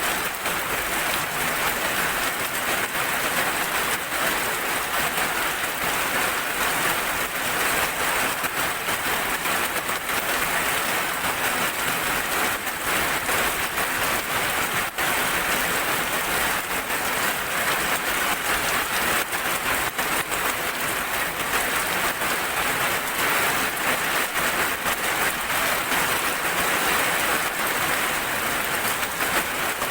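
Steady heavy rain falling, a dense even patter of drops on surfaces.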